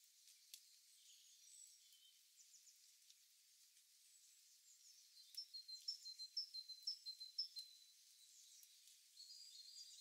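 Faint, high-pitched bird chirps: a quick run of about a dozen short notes starting about five seconds in, then a few softer ones near the end, over near silence.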